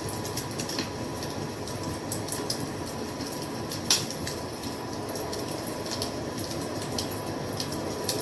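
Wood fire crackling: scattered sharp pops and snaps, the loudest about four seconds in, over a steady low rush.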